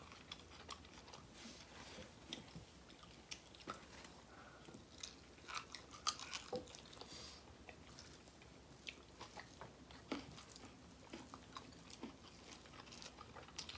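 Faint chewing of rice and duck curry eaten by hand, with scattered short clicks.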